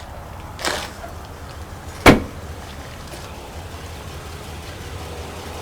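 A single loud, sharp slam at the back of a car about two seconds in, after a short scrape about half a second in. Underneath, a 3.5 L V6 engine idles steadily.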